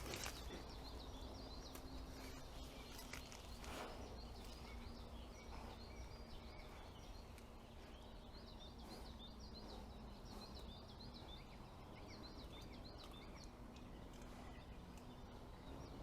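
Faint forest ambience: small birds chirping and twittering in quick repeated calls throughout, over a steady low hum, with one brief knock or rustle about four seconds in.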